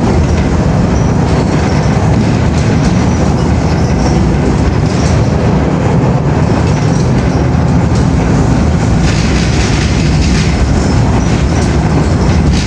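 A moving train, a steady low rumble with faint, even clatter and no break or change.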